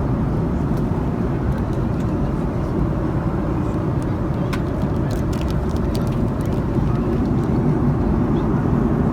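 Steady low rush of cabin noise inside an Airbus A310-304 airliner in flight: engine and airflow noise heard from a window seat, with a few faint clicks about halfway through.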